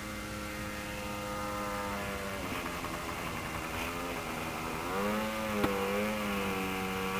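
Engine of an RC seaplane running at low throttle with a steady drone, its pitch shifting about two and a half seconds in. About five seconds in it is throttled up, louder and wavering in pitch, as the plane runs on the water. One sharp click comes just after the throttle-up.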